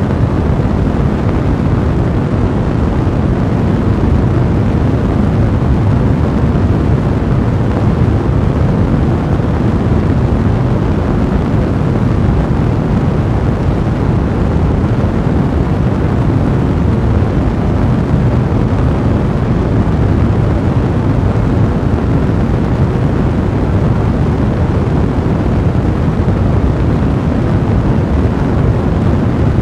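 A fire burning steadily: a dense, even, low rushing noise with no distinct pops standing out.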